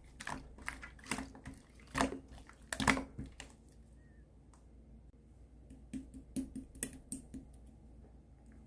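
Clear slime being pressed and mixed by hand, giving sharp sticky clicks and pops. The clicks come thick for the first three seconds or so, stop briefly, then return for a second more.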